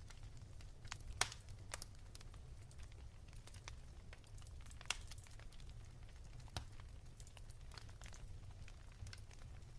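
Wood fire crackling: faint, irregular sharp pops over a low steady rumble, with louder pops about a second in and again near five seconds.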